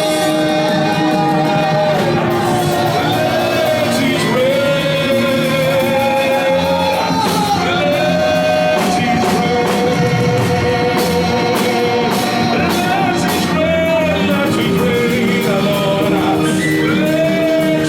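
Church worship music: voices singing long, held, wavering notes over instrumental accompaniment.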